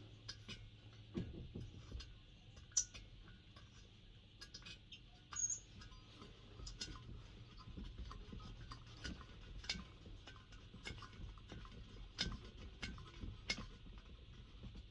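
Faint scattered clicks and small knocks of metal parts and tools being handled while a diesel heater is taken apart, a few louder ones about 1, 3 and 5.5 seconds in, over a low steady hum.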